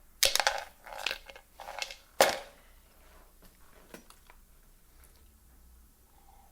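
A few short clattering, rustling handling noises over the first two and a half seconds, the sharpest about two seconds in, then faint room tone.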